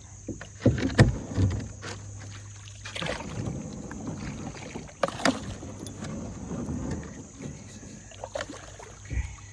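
Kayak hull knocking and scraping against rocks as it is worked free from a shallow, rocky stretch where it has grounded. Several sharp knocks, the loudest about a second in and another about five seconds in, with rough scraping between them.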